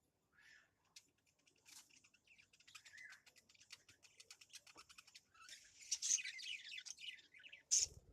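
Small birds chirping and twittering, with a fast repeated trill from about two seconds in and a busier run of chirps near the end.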